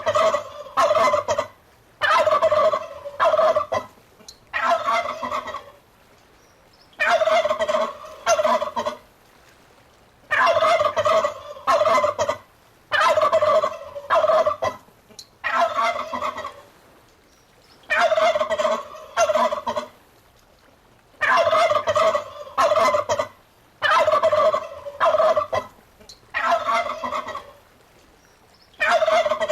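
Turkey gobbling over and over, a rapid rattling gobble about every two to three seconds.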